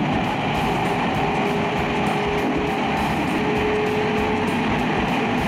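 Train running, heard from inside the carriage: a steady rumble and hiss, with a faint held hum through the middle.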